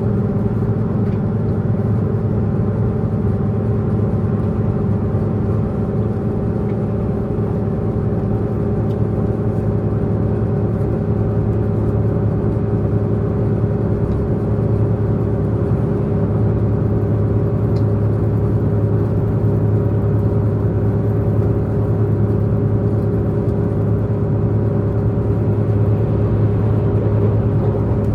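Diesel multiple unit train's engine running at speed under a steady drone of several held tones, mixed with wheel and rail noise, heard from inside the passenger car.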